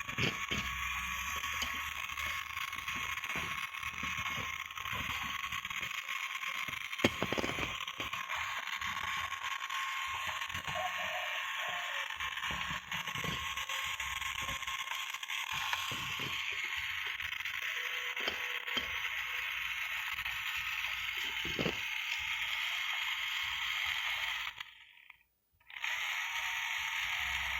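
Small pink mini vacuum cleaner running with a steady high-pitched whine, with scattered clicks and ticks over it. It cuts out for about a second near the end, then runs again.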